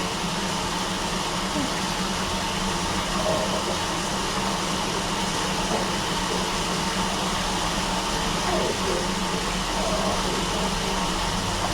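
Steady fan-like whooshing hum with a low drone, even in level throughout, with a few faint short wavering sounds over it.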